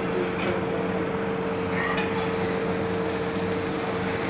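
Shredded chicken and curry leaves sizzling on a hot flat griddle, over a steady low hum from kitchen equipment, with a couple of faint clicks.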